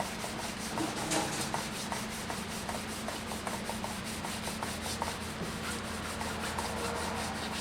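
Sandpaper wet sanding the wooden stave drum shell by hand, quick back-and-forth rubbing strokes at several a second, over a steady low hum.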